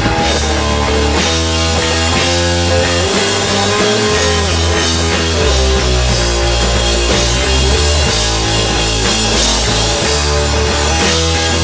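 Live rock band playing: electric guitar, bass and drum kit, with held guitar notes over a steady bass line.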